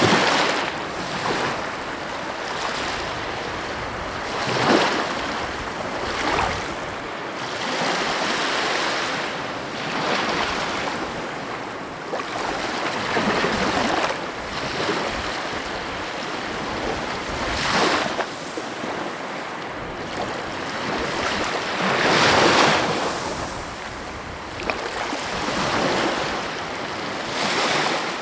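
Sea waves washing in, surge after surge, each one swelling and fading every few seconds.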